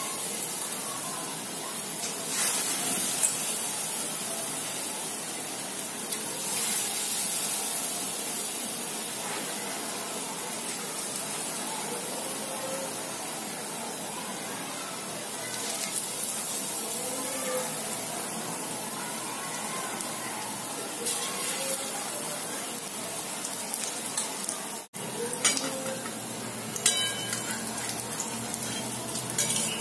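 Batter-coated green bean pakoras frying in hot oil in a metal kadai with a steady sizzle that swells a few times as more pieces go in. Near the end a metal spatula scrapes and taps against the pan.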